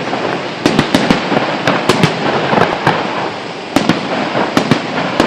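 Aerial fireworks going off: a dense, continuous crackle with about a dozen sharp bangs at irregular intervals, clustered around one to two seconds in and again near four seconds.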